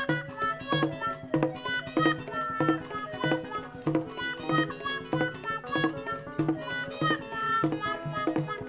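Instrumental praise-worship band music with a steady, quick beat and a bright melodic line, between sung phrases.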